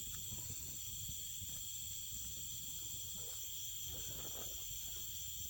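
Steady chorus of crickets trilling, several high, unbroken tones layered together, over a low rumbling background noise.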